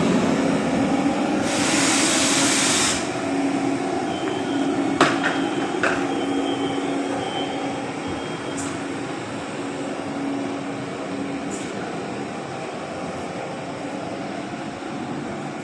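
Train at a station: a loud hiss about a second and a half long near the start, then a steady low hum with two sharp clicks, fading slowly.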